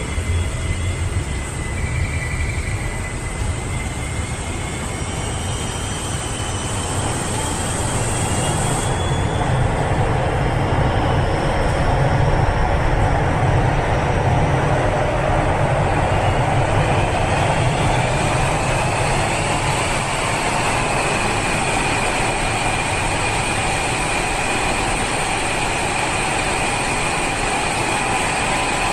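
Keio Line train passing through the station without stopping: a long, loud rush of wheel and running noise that builds over the first several seconds and then holds steady, with a faint high whine.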